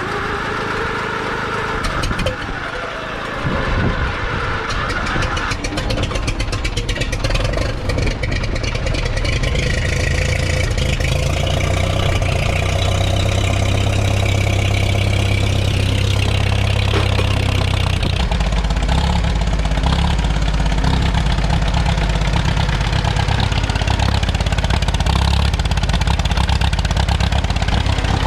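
Ford 2N tractor's four-cylinder engine cranking on a cold start, catching after several seconds and then running steadily at idle.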